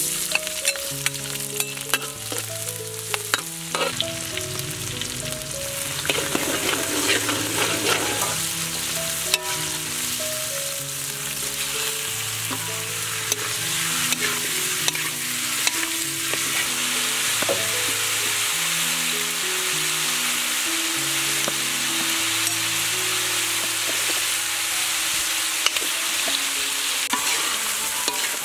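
Garlic and green onion sizzling in hot oil, then chicken pieces frying as they are stirred, with scattered sharp clicks and scrapes against the pan.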